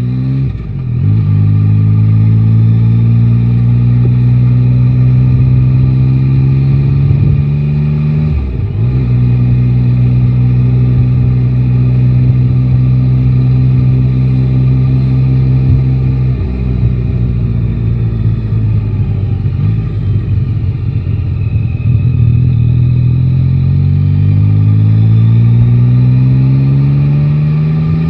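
Yamaha Tracer 9 GT's inline three-cylinder engine heard from the rider's seat in city traffic. It pulls away, holds a steady cruise with a brief dip in engine note about 8 seconds in, runs rougher off the throttle for a few seconds, then revs up again with a rising pitch near the end.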